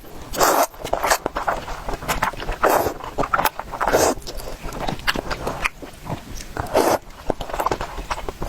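Noodles being eaten noisily: an irregular run of chewing and biting sounds, several a second.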